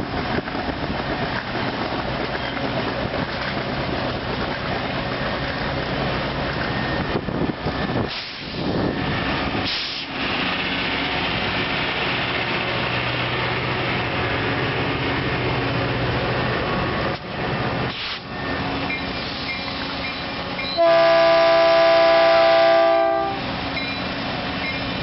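Caltrain diesel passenger train running past, with steady wheel and engine noise, then a loud multi-tone horn chord sounded once for about two seconds near the end.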